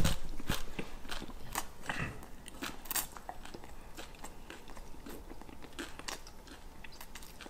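A person chewing a mouthful of crunchy taco shell: a string of sharp crunches, dense at first and thinning out after about three seconds.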